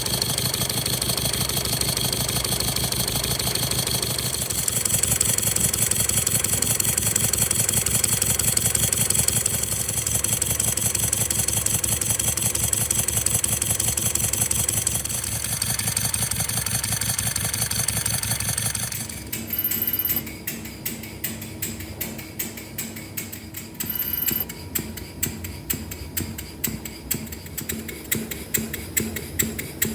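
A miniature model engine running steadily at a fast, even beat. About two-thirds of the way through it gives way to a different small mechanism making a slower, regular clicking.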